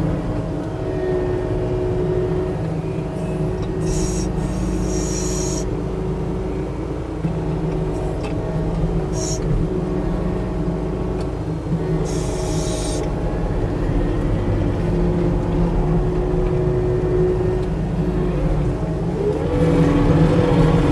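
Skid steer's diesel engine running steadily under load, with a few short hisses along the way, then revving up near the end.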